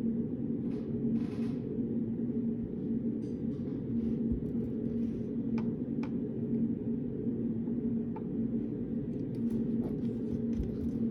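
Steady low hum of a study room, carrying one constant low tone like a ventilation or air-conditioning unit. Over it come a few light rustles near the start and scattered soft clicks, the small sounds of someone studying at a desk.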